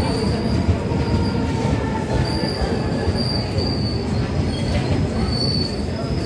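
Passenger train coaches rolling past a platform with a steady, loud rumble. A thin, high metal squeal from the wheels comes and goes several times.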